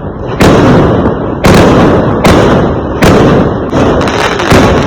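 Firework explosions: a rapid series of about six loud bangs, one every second or so, each followed by a fading tail.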